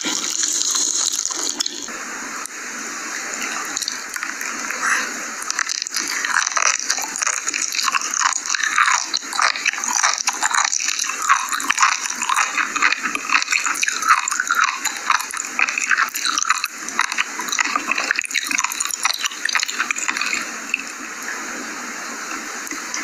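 Close-miked eating sounds: chewing and biting, heard as a dense, continuous run of short clicks.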